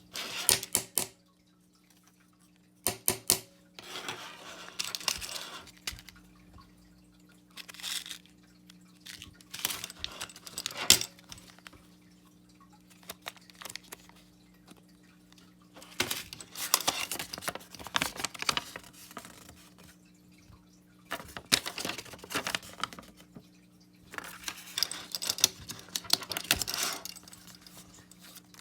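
Unboxing handling noise: packaging rustling and tearing with small clicks and knocks, in bursts a second or two long with short pauses between, over a faint steady hum.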